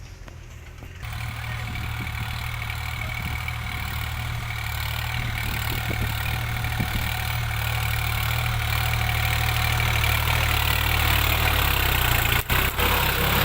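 New Holland 3600-2 tractor's diesel engine running with a steady low note. It sets in abruptly about a second in and grows gradually louder, with two brief dropouts near the end.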